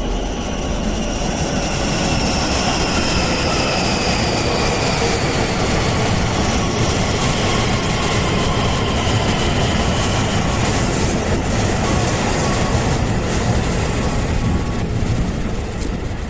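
Electric commuter train running through the station without stopping: steady wheel-on-rail noise with a whine that falls slowly in pitch over the first several seconds, easing off near the end.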